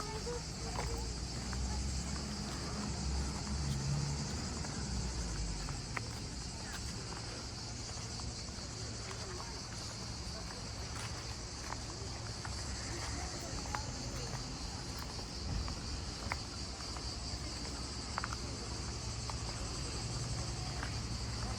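Steady, high-pitched chorus of insects, unbroken throughout, with a low rumble in the first few seconds and a few faint clicks.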